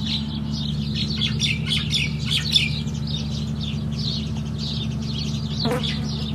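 Many small birds chirping continuously, over a steady low hum.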